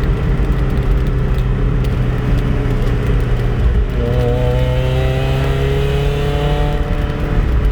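Mazda Miata's 1.8-litre four-cylinder engine breathing through an aftermarket header, Borla dual exhaust and MagnaFlow resonator, heard from inside the cabin with the windows open. It runs steadily in gear, and from about halfway through its pitch slowly eases down as the car slows.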